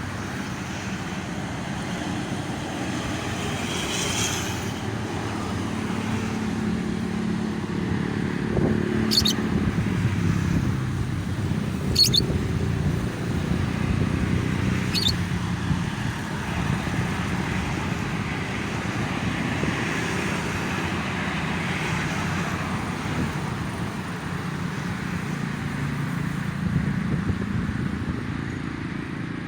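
Steady road traffic running past: a continuous low rumble of engines and tyres that swells and eases as vehicles pass. Over it come a few short, high lovebird chirps, about three seconds apart, in the middle.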